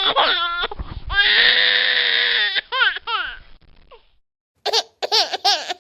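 Human crying: high-pitched wailing cries, with a long strained wail about a second in, then falling sobs, a short pause, and quick broken sobs near the end.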